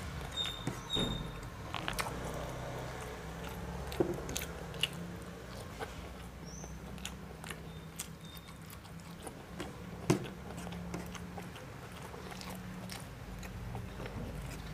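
Close-miked chewing and mouth sounds of a person eating rice and fried fish by hand, with scattered wet clicks and smacks; the sharpest clicks come about four and ten seconds in. A faint low hum lies underneath.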